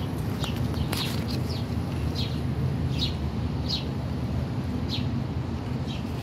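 Small wild birds chirping: a dozen or so short, high, slightly falling chirps at irregular intervals, over a steady low background rumble.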